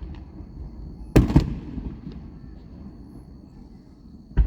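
Aerial fireworks shells bursting: a loud double boom about a second in that rumbles as it dies away, a few faint pops, and another boom at the very end.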